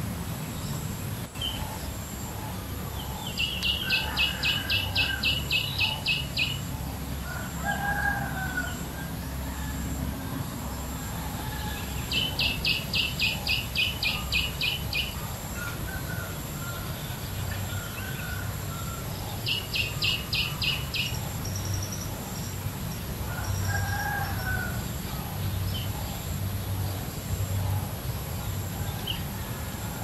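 Birds calling outdoors: three runs of rapid, evenly repeated high notes at about four a second, the first two about three seconds long and the last shorter, with a few lower, short calls in between, over a steady low rumble.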